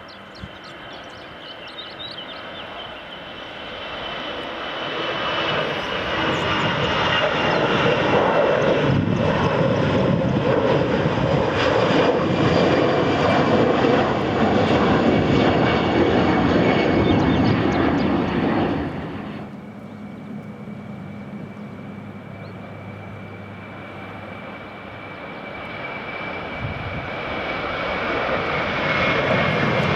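Airliner engines running as an aircraft passes close by: a loud engine noise with a high whine that slowly drops in pitch builds over several seconds, then cuts off abruptly about two-thirds of the way through. A quieter steady engine whine follows and grows louder again near the end.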